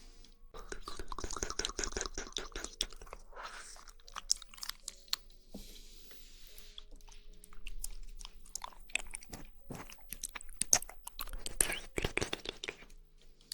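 Close-miked mouth sounds of someone eating jelly: wet squishing, smacking and tongue clicks in quick, irregular runs, thinning out briefly near the middle.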